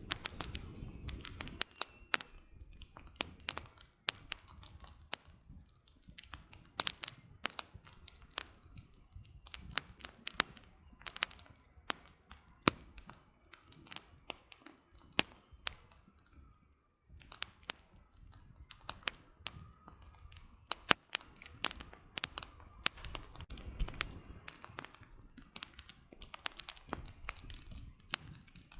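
Wood campfire burning, the firewood crackling with many irregular sharp pops that come in thick clusters with brief lulls between, over a soft low rumble of the flames.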